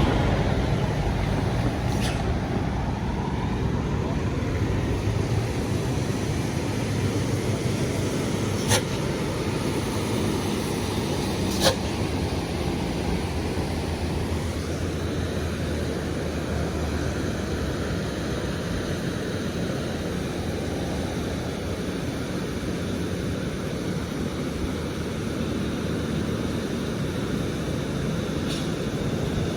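Road traffic of buses and trucks: heavy-vehicle engines running steadily with tyre and road noise. Sharp clicks come about 9 and 12 seconds in, the second the loudest.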